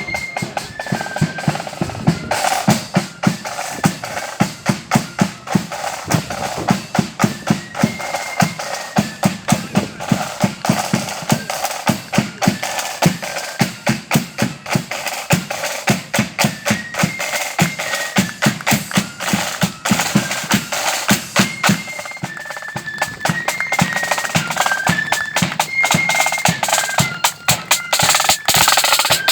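Marching flute band playing: a high flute melody over rapid snare drumming and bass drum beats.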